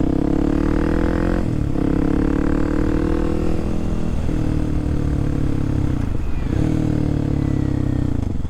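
Kawasaki KLX300SM's single-cylinder engine running under way on a ride. The engine note breaks briefly four times, about every two seconds, picking up again after each break.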